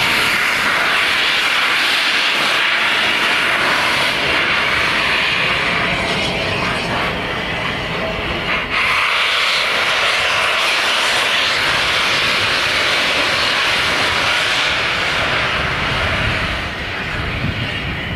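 A train running through the station, heard as a loud, steady rushing noise that dips briefly about nine seconds in.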